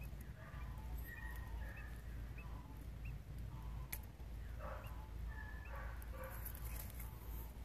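Newly hatched birds peeping: many short, high cheeps, one every second or so, over a steady low hum. A single sharp click comes about four seconds in.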